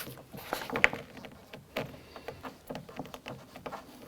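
Razor blade working a plastic door water shield free of its sticky sealant: irregular light clicks, scrapes and crackles of the plastic peeling away.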